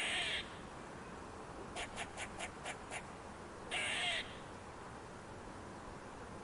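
A bird calling: a harsh half-second call at the start and another about four seconds in, with a quick run of six short notes, about five a second, around two seconds in.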